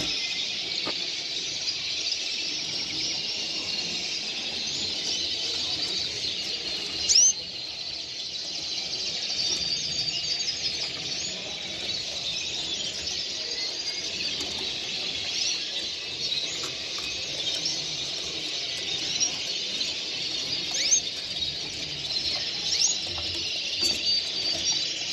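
Many caged songbirds chirping and singing at once in a dense, unbroken chorus of quick trills and calls, with one loud, sharp call about seven seconds in.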